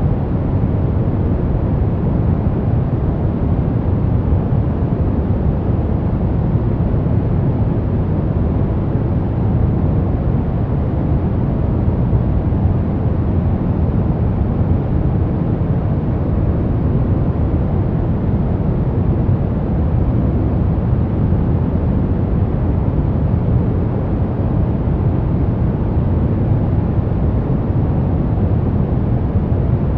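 Steady, unchanging white-noise track for baby sleep, deep in tone, with most of its weight low down and little hiss on top.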